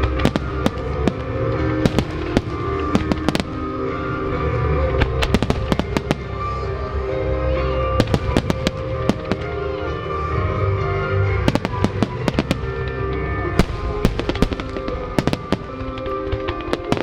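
Aerial fireworks shells bursting in quick irregular volleys of sharp bangs and crackles, over music that plays throughout.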